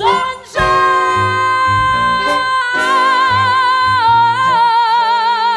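Musical theatre song: a woman's voice holds one long, high belted note with vibrato over band accompaniment, the pitch stepping down once about four seconds in.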